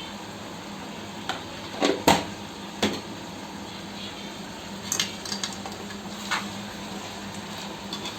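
A spoon clinking and knocking against a cooking pot as turmeric is added to the chicken curry: a few sharp clinks about two seconds in, lighter ones a few seconds later, over a low steady hiss.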